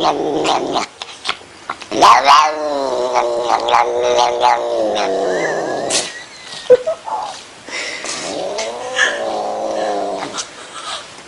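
Domestic cat caterwauling: long, drawn-out yowls with a wavering pitch. The longest lasts about four seconds, and a second one comes near the end.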